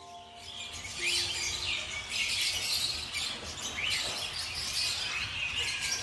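A chorus of small birds chirping, many short calls overlapping throughout.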